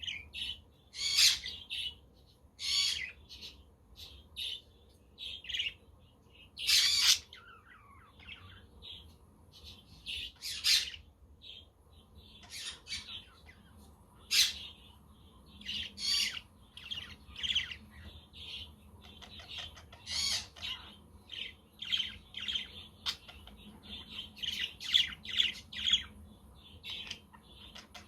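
Budgerigars chirping and chattering in quick short calls, with several louder harsh squawks among them.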